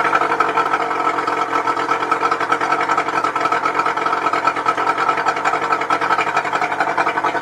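Evinrude 60 hp VRO two-stroke outboard motor idling steadily with a fast, even flutter.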